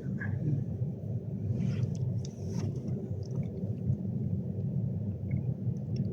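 Steady low rumble inside the passenger saloon of an Avanti West Coast Class 390 Pendolino, with a few faint clicks about two seconds in.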